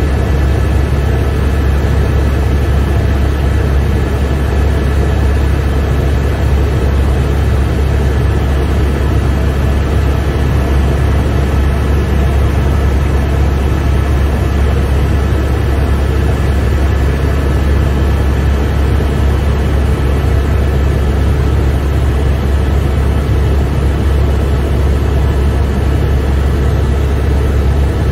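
Helicopter in cruising flight, heard from inside the cabin: a loud, steady low drone of the rotor and turbine with a faint high whine, unchanging throughout.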